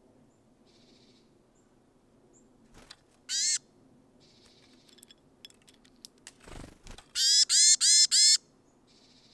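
A bird at the feeder calls: a single harsh, nasal note about three seconds in, then four of the same notes in quick succession near the end. Soft high chirps from other birds, light clicks and a single thump come in between.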